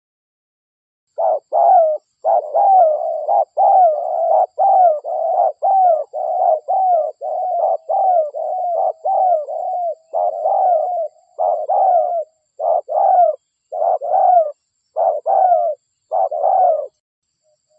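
Spotted dove (derkuku) cooing: a long, rapid run of short coos, about two a second, starting about a second in, the spacing loosening toward the end. The cooing serves as a lure call to draw other spotted doves in.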